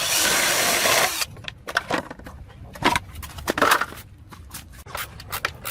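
A loud steady hiss that stops about a second in, then scattered light clicks and knocks.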